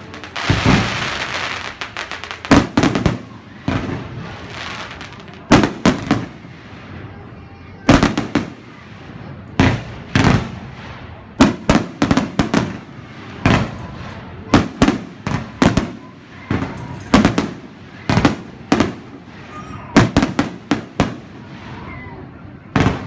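Aerial fireworks shells bursting overhead: a long crackling hiss about half a second in, then sharp booms every second or two, often two or three in quick succession.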